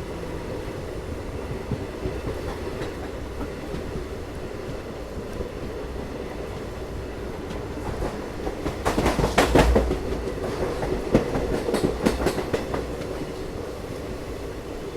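Passenger train running on the rails with a steady rumble, and a louder stretch of rapid wheel clicks and clatter from about two-thirds of the way through, easing off near the end.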